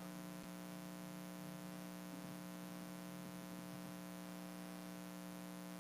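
Steady electrical hum with a faint hiss underneath: a pause with no speech.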